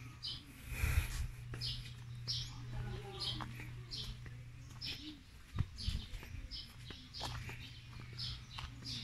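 A bird chirping over and over, short high chirps at an even pace of about three every two seconds, over a low steady hum. A dull bump comes about a second in.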